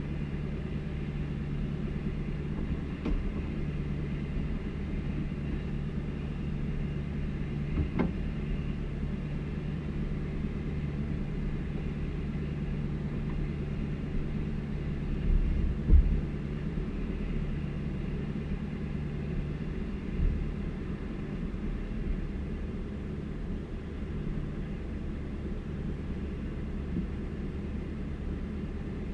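A vehicle engine idling steadily, with a few dull knocks, the loudest about halfway through.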